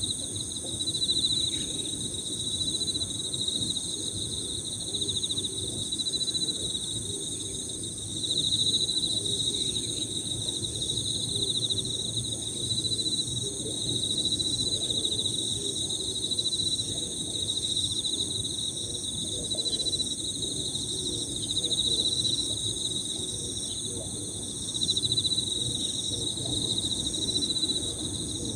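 Several Emma field crickets trilling continuously at high pitch, their overlapping rapid trills swelling and easing every few seconds.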